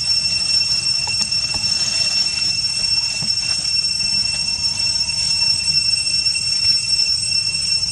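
Steady, high-pitched insect drone, like a cicada chorus, holding one shrill tone with a hiss above it.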